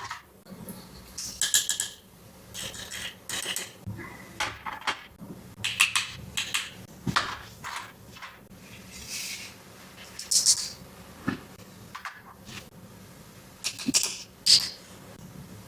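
Small plastic toy pieces and packaging handled by hand: irregular clicks, taps and crinkles, spaced unevenly.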